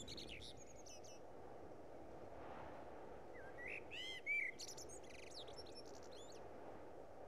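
Faint ambience of small birds chirping: a few short chirps at the start, then a cluster of quick chirps and rising and falling whistled calls about four seconds in, over a steady soft hiss.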